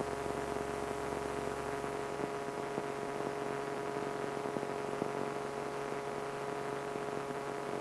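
Steady in-flight drone of a Saberwing light airplane's turbocharged Corvair engine, propeller and airflow, heard through the cockpit intercom as an even hiss with a few steady hum tones.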